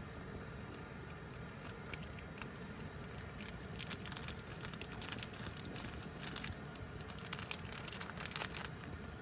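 Crinkling and rustling, a run of small irregular crackles starting about three and a half seconds in and stopping near the end, over a steady low background hum.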